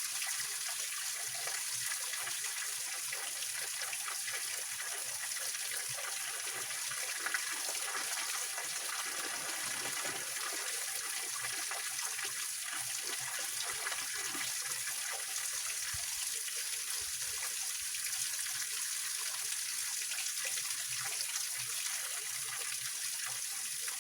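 Small waterfall on a mountain stream, water splashing and trickling steadily over rocks.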